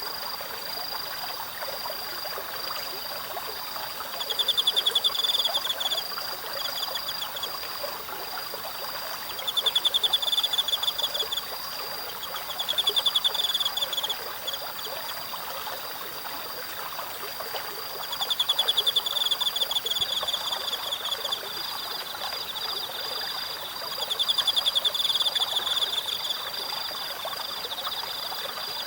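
Insects calling over a babbling stream. One insect keeps up a continuous high trill. Louder pulsed insect calls come in every few seconds and last a second or two each.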